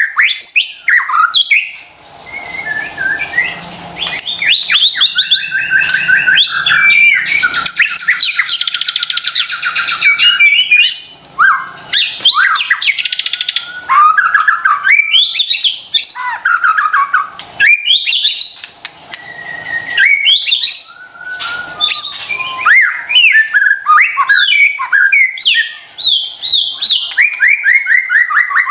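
White-rumped shama singing continuously: a fast, varied stream of whistles, rapid trills and chirps with only brief pauses.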